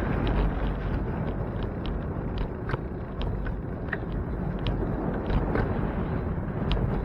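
Steady wind and road rumble on a camera riding along on a moving bicycle, with many short, high squeaks scattered through it.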